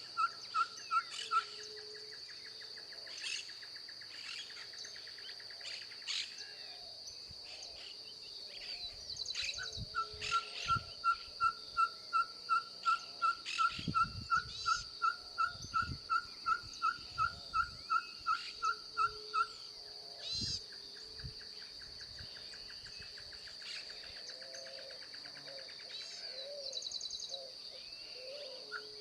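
Ferruginous pygmy-owl singing: a long series of evenly spaced whistled toots on one pitch, about two and a half a second, heard briefly at the start and again for about ten seconds from a third of the way in. A steady high insect drone runs underneath, with other birds calling.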